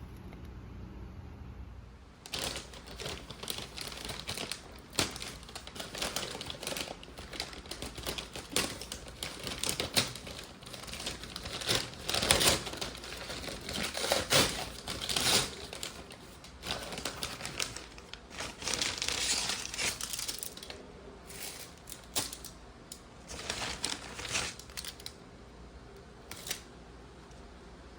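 Food delivery packaging being handled and opened: irregular crinkling and rustling with sharp clicks, starting about two seconds in and dying away near the end.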